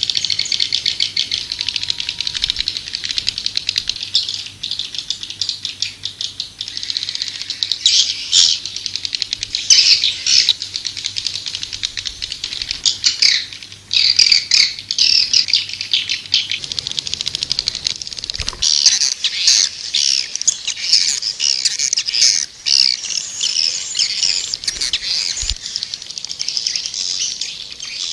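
Swiftlets twittering in a dense, rapid, high-pitched chatter. This is a swiftlet calling recording of the kind played to lure swiftlets into a nesting house.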